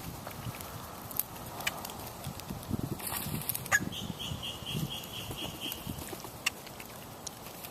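A bird calls a quick run of about eight high, evenly spaced notes, about four a second, just after a brief noisy burst, over scattered clicks and a low rumble.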